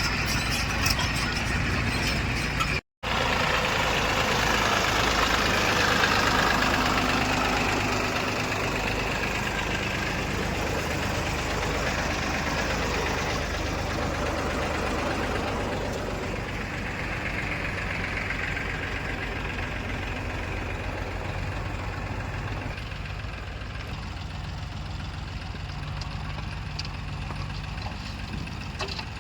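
Heavy diesel engine running steadily, with a brief cut-out about three seconds in.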